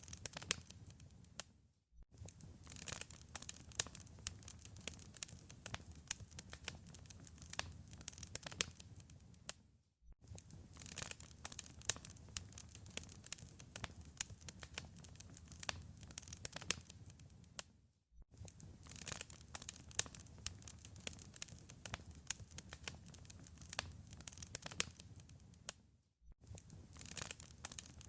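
Wood fire crackling in a fireplace: a dense run of sharp pops and snaps over a low rumble. The crackling dies away briefly and comes back about every eight seconds.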